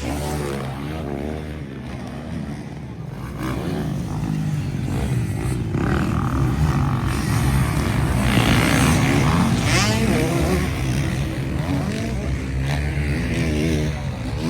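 MX1-class motocross motorcycles racing, engines revving up and down as they pass, growing louder over the first several seconds.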